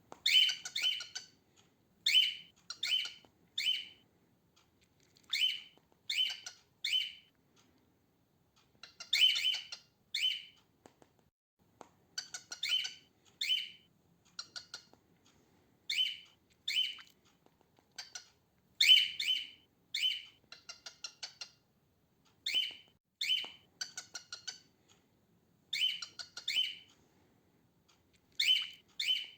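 Female cockatiel calling: short chirping calls in quick runs of two to four, a new run every two or three seconds. This is the female's usual song, not a whistle.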